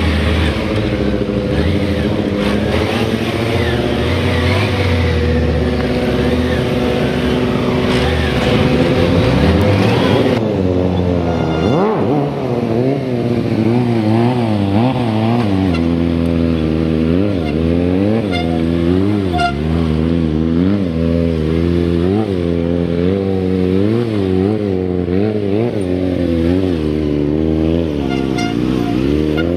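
Motorcycle engine running. It holds a fairly steady pitch at first; from about ten seconds in it is revved up and let down over and over, about once every second or so.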